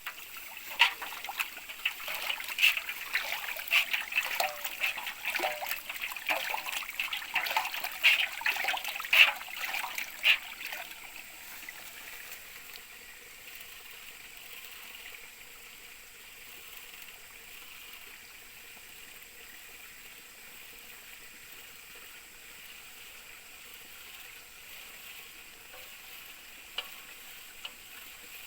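Water sloshing and splashing in a gold pan during panning, with many sharp splashes over the first ten seconds or so, then settling to a faint steady trickle of running water with a couple of small clicks near the end.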